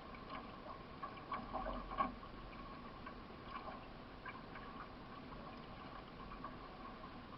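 Faint water sounds of a solo racing canoe being paddled, with scattered small clicks and knocks.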